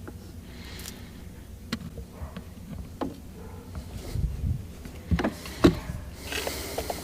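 Scattered light clicks and knocks of a boat's remote control being handled and worked on by hand. There is a low thump about four seconds in and a short hiss near the end.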